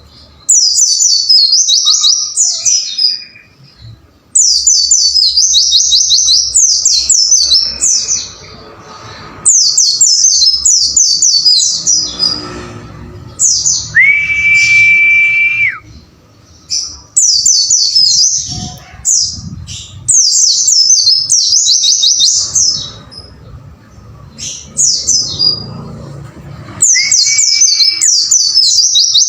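White-eye (pleci) song: loud phrases of fast, high twittering, repeated every second or two with short pauses. A long, steady whistle comes about halfway through, and a shorter one near the end.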